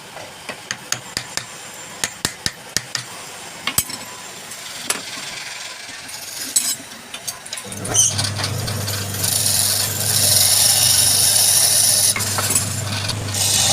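A scatter of light taps and knocks, then about eight seconds in a wood lathe's motor starts with a steady low hum. A turning tool then cuts into the spinning wood with a steady scraping hiss.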